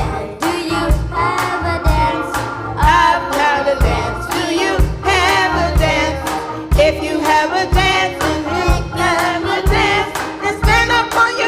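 Gospel choir singing with a live band, the voices over a steady drumbeat.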